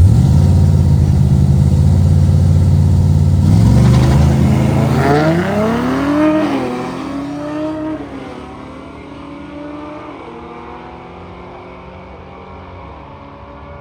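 Drag-racing car's engine at full throttle, loud at first, then climbing in pitch with a drop at a gear shift as the car pulls away down the strip and fades into the distance; a fainter engine sound remains.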